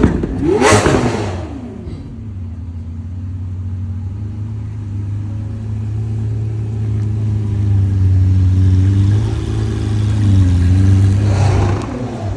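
A car engine revs once about half a second in, then the revs fall away. It settles into a deep, steady rumble at low revs that slowly grows louder as the car rolls by.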